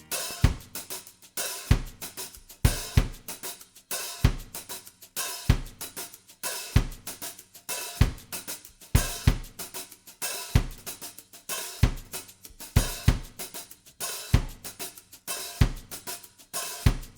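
Background music: a drum kit playing a steady beat on its own, a deep kick drum about every second and a quarter with hi-hat and cymbal ticks between.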